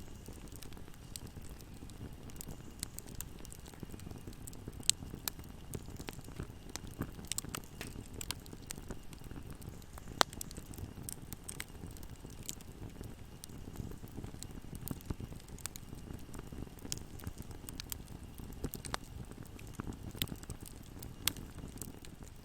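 Wood fire burning in a fireplace: a steady low rumble under frequent small crackles, with a few sharp pops about five, ten and twenty-one seconds in.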